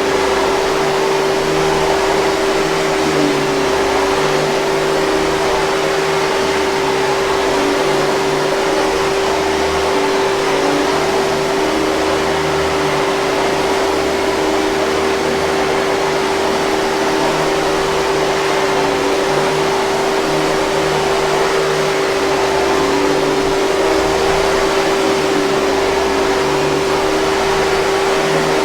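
Hoover 5000 Series canister vacuum cleaner running steadily: an even rushing noise with a constant motor whine.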